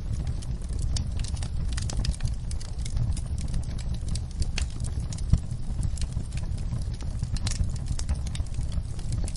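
Wood fire crackling in a fireplace: irregular sharp pops and snaps over a steady low rumble of the flames, with one louder pop about five seconds in.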